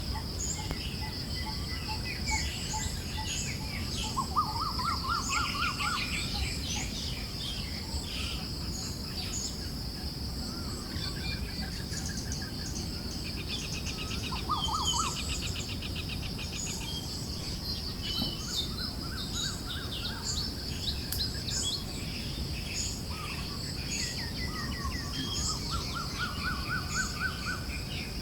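A chorus of forest birds chirping and trilling, with several overlapping songs, over a steady high-pitched buzz and a low rumble of wind.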